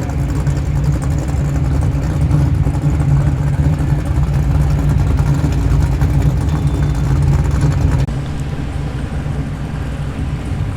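Car engine running at low speed as a muscle car drives slowly in, a loud, steady low note. It drops a little, suddenly, about eight seconds in.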